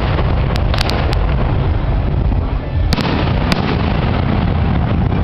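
Fireworks shells bursting overhead: a quick cluster of sharp bangs about a second in, then two or three more around three seconds in, over a steady low rumble.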